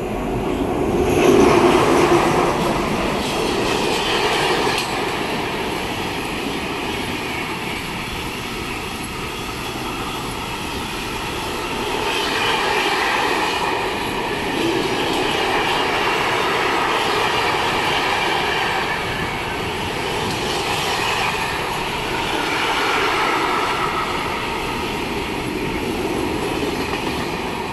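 Electric freight train of container wagons passing, its wheels running over the rails. Loudest about two seconds in, then a steady run of wheel and rail noise that swells and eases as the wagons go by.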